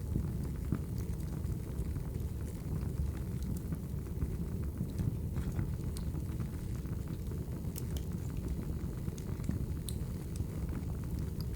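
Logs burning in a fireplace: a steady low rumble of the flames with scattered sharp crackles and pops.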